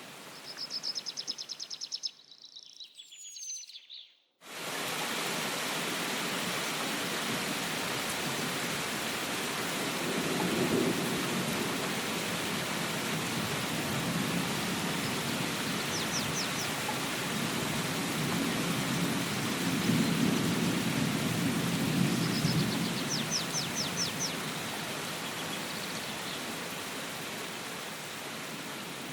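Steady rain falling, with low thunder rumbling twice, about a third of the way in and again past the middle. A bird gives short high trills now and then, and the sound cuts out briefly a few seconds in before the rain begins.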